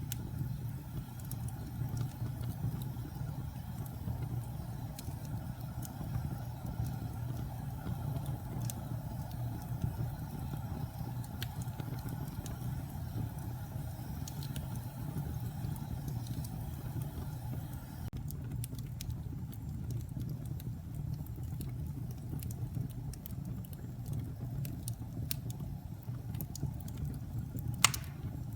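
Wood fire burning in a fireplace: a steady low rumble of flames with scattered crackles throughout, and one loud pop near the end.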